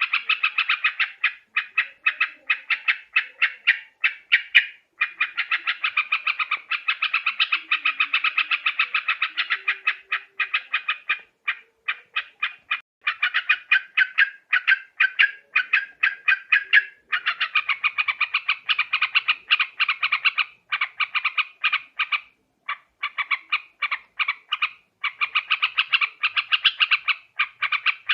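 Yellow-vented bulbul (trucuk) calling: fast runs of short chattering notes, many a second, in bouts broken by brief pauses.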